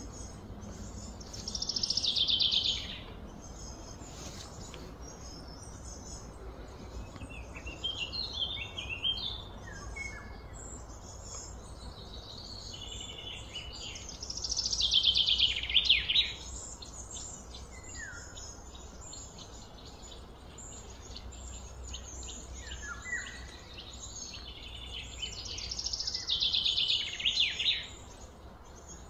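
Birds chirping in the background, with a louder high call sweeping downward three times, about twelve seconds apart.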